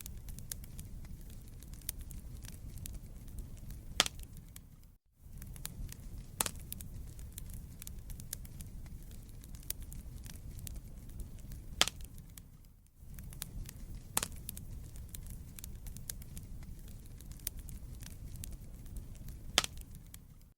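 Wood fire burning in a fireplace: a steady low rumble of flames with scattered sharp crackles and pops from the burning logs, the loudest about four, twelve and nineteen seconds in. The sound drops out for a moment about five seconds in.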